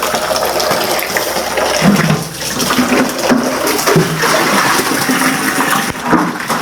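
Water running steadily from a tap fed by a water tank.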